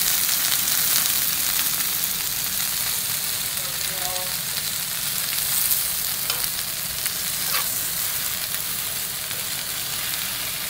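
Sliced sausage and onion sizzling in a frying pan, a steady hiss, with a couple of faint clicks from tongs stirring in the pan in the second half.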